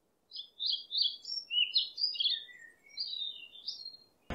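European robin singing: a run of quick, varied warbling notes that rise and fall, stopping shortly before the end.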